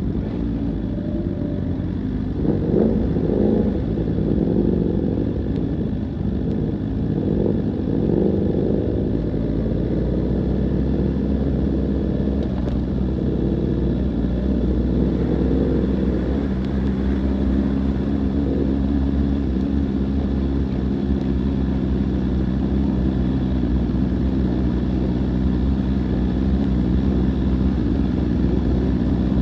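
A vehicle engine running on the move, its pitch rising and falling for the first several seconds, then holding steady over a constant low rumble.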